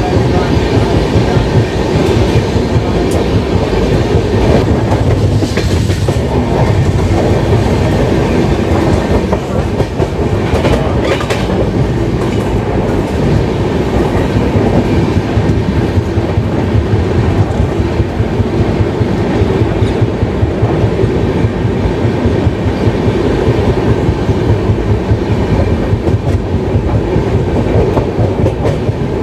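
Passenger express train running along the track, with steady, continuous wheel-on-rail noise.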